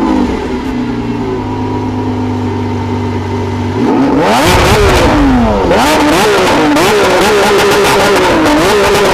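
Lamborghini Aventador SVJ's naturally aspirated V12 coming down from its start-up flare to a steady idle, then revved again and again from about four seconds in, its pitch climbing and dropping with each rev.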